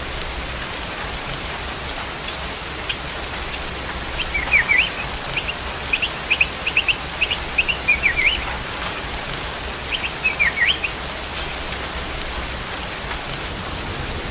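Steady hiss of rain, with a bird giving a quick run of short, sharp chirps, several dipping in pitch, from about four to eleven seconds in.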